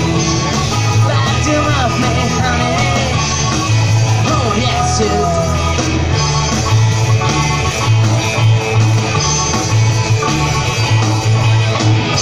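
Live rock band playing an instrumental stretch of a song: electric guitar over bass and drums with a steady beat, sliding guitar notes in the middle.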